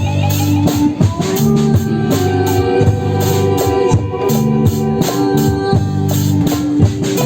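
Live band music from a psytrance jam: held, sustained chords that change pitch about once a second, over a steady drum beat.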